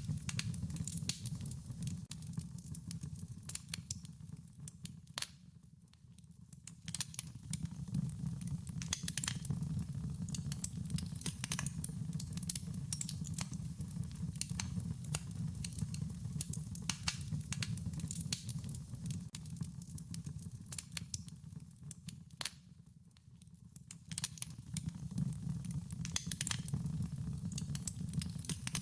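Wood fire crackling: frequent sharp pops and snaps over a steady low rumble of the burning flames, dipping briefly in level twice.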